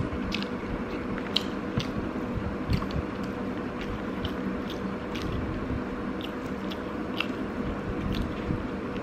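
Close-up chewing and mouth clicks of someone eating rice and chicken with their fingers: a scattering of irregular sharp clicks over a steady faint hum.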